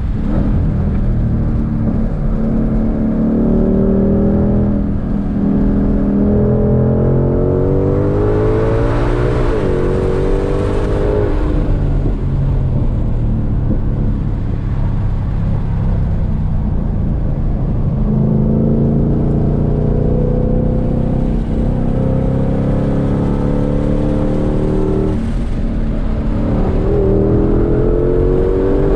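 2022 Shelby GT500's supercharged 5.2-litre V8 under hard acceleration, heard from inside the cabin. The engine note climbs in pitch twice, falling away after each climb, and starts climbing again near the end.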